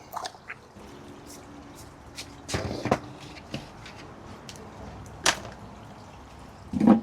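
Parts of a Fluval FX-6 canister filter being handled during cleaning: scattered sharp clacks and knocks, with a longer bout of rattling about two and a half seconds in and the sharpest knock about five seconds in.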